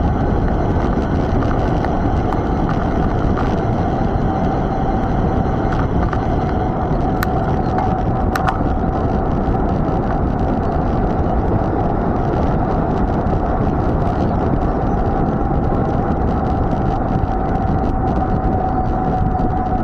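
Steady rushing noise of a mountain bike being ridden: wind on the camera microphone and tyres rolling, with a steady hum running through it and a couple of faint clicks partway through.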